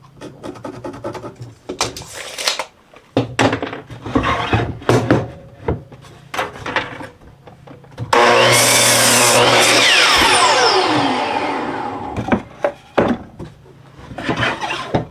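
Knocks and handling of a wooden board at the saw. About eight seconds in, a miter saw starts and cuts through the board. Its whine then falls steadily as the blade spins down.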